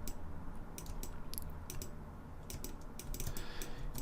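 Computer keyboard keys pressed now and then, a few separate clicks a second, over a low steady hum.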